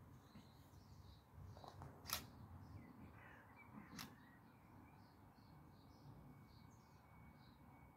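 Near silence: faint outdoor ambience with distant bird calls and two sharp clicks, about two seconds apart.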